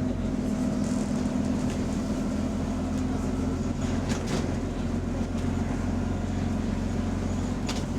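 Bus engine running, heard from inside the passenger cabin: a steady low drone and hum, with a few short rattles and clicks around four seconds in and near the end. The bus has an exhaust leak, which is only barely audible from inside.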